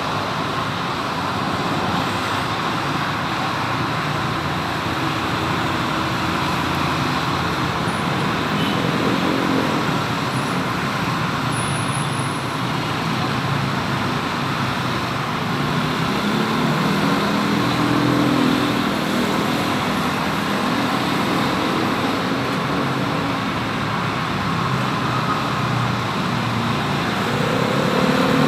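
Steady road traffic noise, with engine sounds of passing vehicles swelling and fading a few times.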